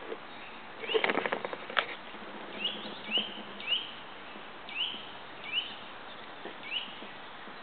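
A small bird calling a short rising chirp over and over, roughly every half second. About a second in, a quick run of clicks, the loudest sound here.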